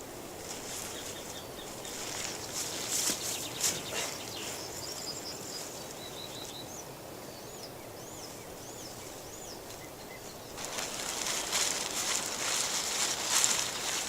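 A small bird gives a run of about five short, arched chirps in the middle. Before and after it there are bursts of rustling, crackling noise in forest surroundings, the loudest part near the end.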